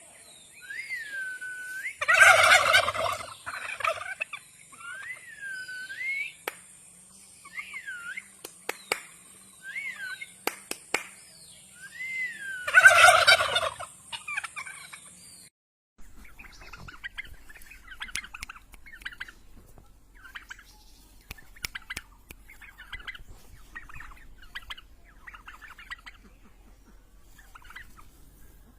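Turkeys gobbling: two loud gobbles, about two seconds in and again about thirteen seconds in, with short whistled calls rising and falling between them. About halfway through, the sound changes to fainter, shorter calls over a low hum.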